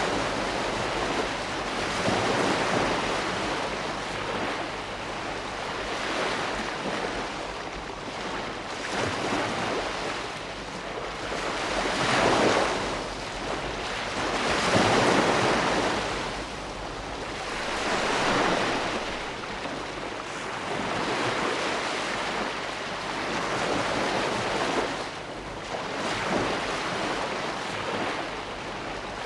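Ocean waves breaking and washing on the shore, a steady rush that swells with each wave every few seconds, the biggest surges about twelve and fifteen seconds in.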